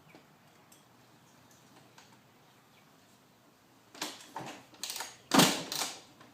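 About four seconds in, a quick run of five short, noisy clatters, the fourth the loudest, as the 2004 Suzuki RM125 two-stroke is kicked over from cold; it does not settle into a steady run. Before that, only faint bird chirps.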